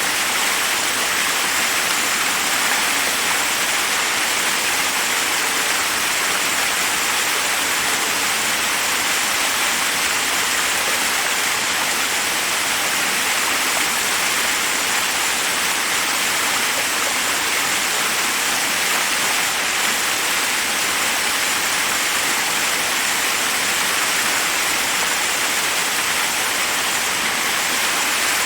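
Forest waterfall rushing steadily over rocks, a constant hiss of falling water with no change.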